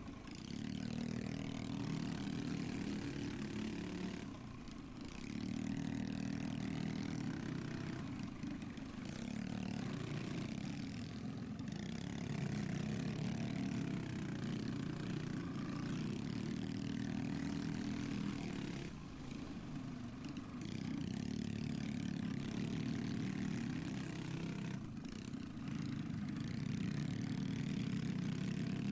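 Pit bike engine running hard through a race, its pitch and level dipping briefly several times as the throttle is backed off and then coming back up.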